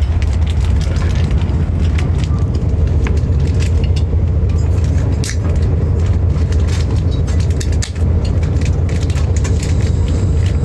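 Train running, heard from inside the carriage: a steady low rumble with frequent irregular clicks and rattles.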